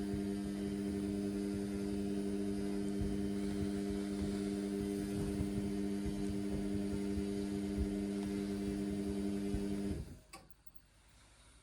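Indesit washing machine running a synthetics cycle overloaded with suds, giving a steady electric hum. The hum cuts out about ten seconds in, with a click, leaving the machine nearly silent.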